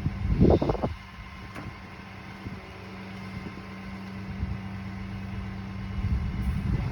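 A vehicle engine idling steadily, with a short louder rumble about half a second in and another near the end.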